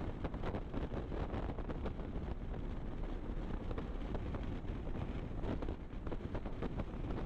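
Wind buffeting the microphone at road speed, a rough rushing noise with irregular gusts, over the low rumble of the vehicle running along the road.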